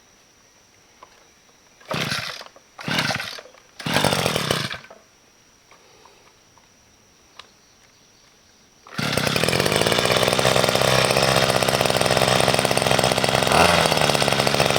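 Chainsaw: three short bursts about a second apart, then about nine seconds in it starts running steadily and loudly as the cutting of small felled trees begins.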